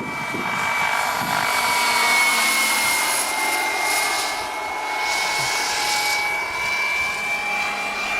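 Wren model gas turbine running with a steady high whine in a 1:4 scale Lama SA 315B model helicopter, along with rotor and turbine noise. The sound grows louder about two seconds in and again about six seconds in.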